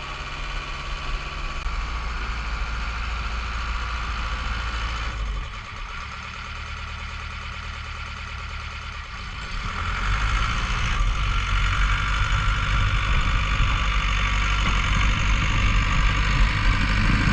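Bulldozer's diesel engine running steadily; about five seconds in it drops to a quieter, lower note, and about ten seconds in it picks up louder again.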